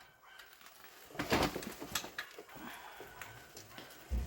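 Doves calling among irregular clicks and rustles, with a louder rustling burst about a second in and a dull low thump near the end.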